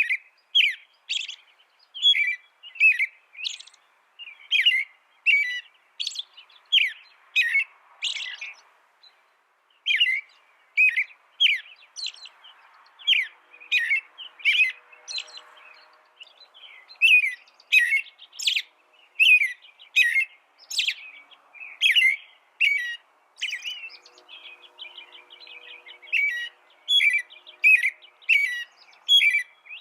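A small songbird calling in a long series of sharp, downward-sweeping chirps, about two a second, broken by a few short pauses.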